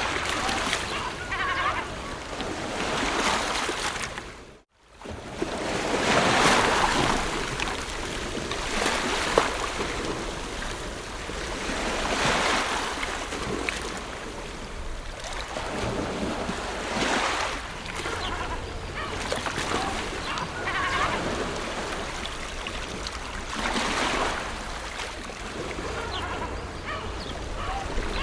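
Ocean waves washing onto a shore, each surge swelling and falling back every few seconds. About four and a half seconds in the sound dips almost to silence for a moment and then returns.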